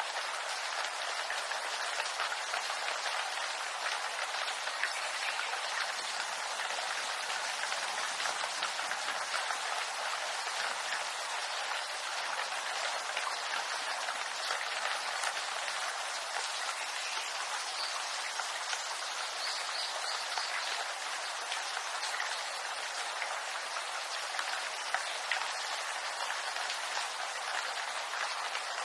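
Steady rain in a bamboo grove: an even hiss of countless small drops striking the leaves.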